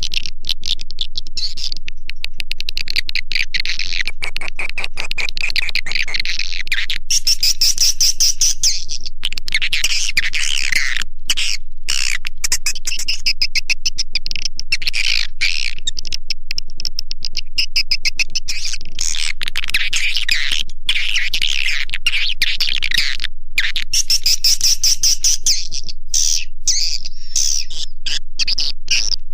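Recorded edible-nest swiftlet calls played back as a dense, loud, unbroken twittering chatter. This is a 'suara panggil' calling sound, made to draw swiftlets into a bird house.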